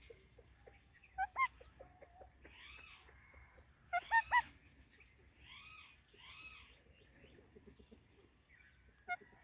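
Pet parrots calling: two sharp squawks about a second in, a loud run of three about four seconds in and a single one near the end, with softer arching calls in between.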